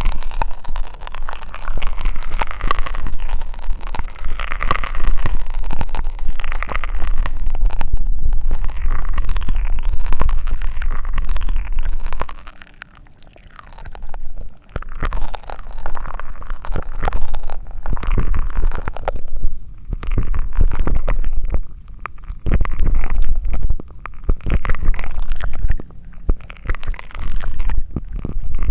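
Close-miked ASMR mouth sounds: dense crackling and clicking over a steady low rumble, dropping off briefly about halfway through.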